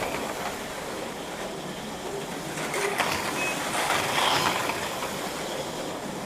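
HO-scale Auto World ThunderJet 500 slot cars running laps on the track: a steady whirring of small electric motors and pickup shoes, swelling each time the cars pass close by. A short electronic beep sounds about three and a half seconds in.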